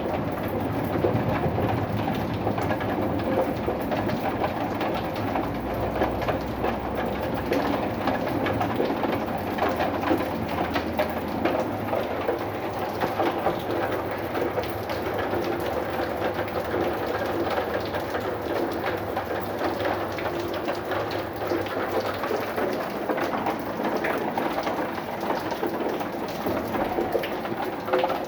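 Steady rain falling, a dense patter of drops hitting a surface, with a low rumble underneath during the first ten seconds or so.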